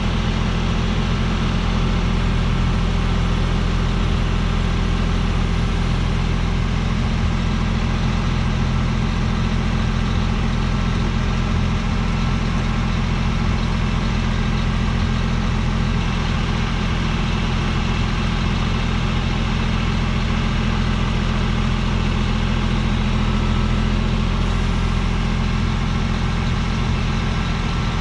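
An engine idling steadily with an even low hum that does not change in speed.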